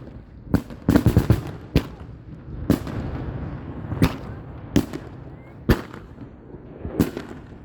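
Fireworks going off: a string of sharp bangs at irregular intervals, with a quick run of four or five about a second in and single reports every second or so after.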